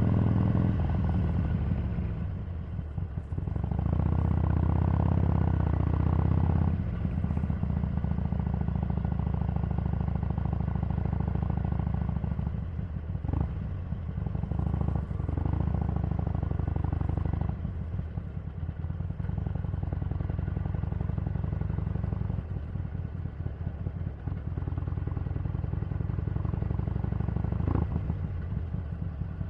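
Harley-Davidson 883's air-cooled V-twin engine running as the motorcycle is ridden: louder under throttle at the start and again from about four to seven seconds in, then steadier and quieter, easing off near the end.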